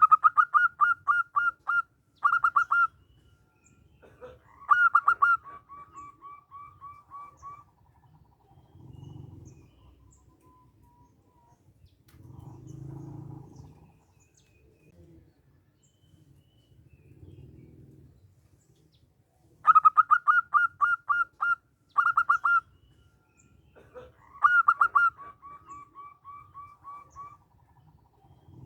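Zebra dove (perkutut) singing its cooing song twice: a fast run of about eight loud notes, a brief pause, then a single strong note trailing off into a string of softer, quicker notes. The second song comes about twenty seconds in.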